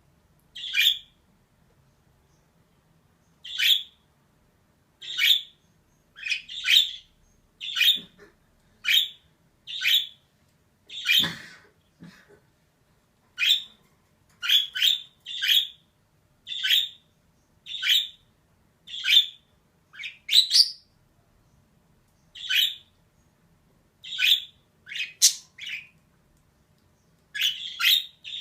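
Female budgerigar giving short, sharp chirping calls, roughly one a second and some in quick pairs, with a pause of about two seconds near the start.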